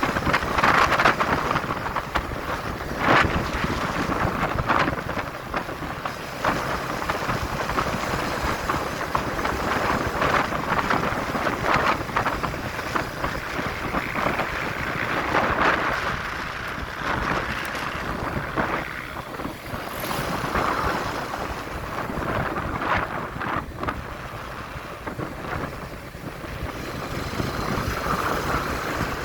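Wind buffeting the microphone of a moving motorcycle, rising and falling in gusts, over the noise of the engine and the road.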